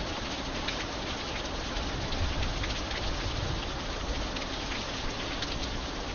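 Steady rain, a continuous hiss with many separate drops ticking on a hard surface.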